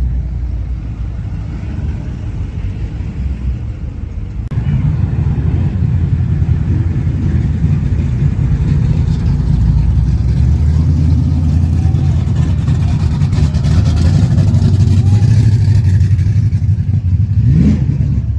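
Old car's engine running with a steady low rumble that grows louder about four and a half seconds in, then a brief rising rev near the end.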